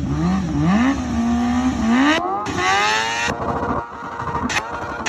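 BMW S1000RR inline-four engine revved in blips, then taken up in one long climbing rev about two seconds in. As the revs fall back the exhaust crackles and pops on the overrun, with one sharp bang near the end: the backfire that spits flame from the exhaust.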